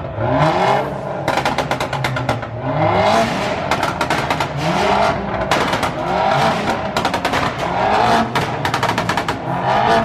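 Car engines revved hard over and over, each rev rising in pitch for about a second, about seven times, with rapid crackling pops and bangs from the exhaust. The sound echoes in an underground car park.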